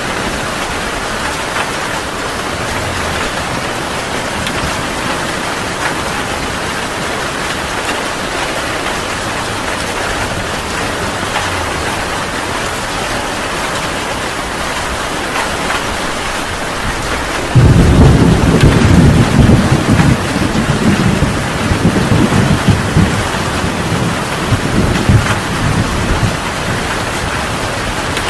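Heavy rain falling steadily; about two-thirds of the way through, a loud clap of thunder breaks in suddenly and rumbles, fading over several seconds.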